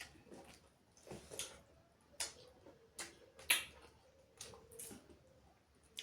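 Close-miked eating sounds: chewing with a series of short, sharp mouth clicks and smacks at irregular intervals, the loudest about halfway through.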